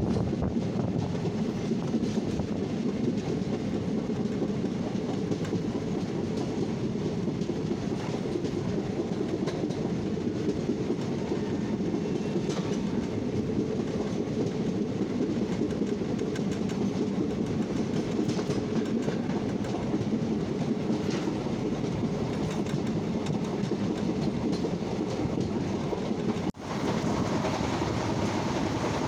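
Express passenger train coach running at speed, a steady rumble of wheels on the track heard from an open coach door. The sound breaks off for a moment near the end.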